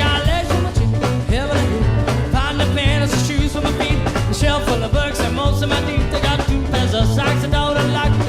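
Up-tempo swing band music, with a steady driving beat under layered pitched parts.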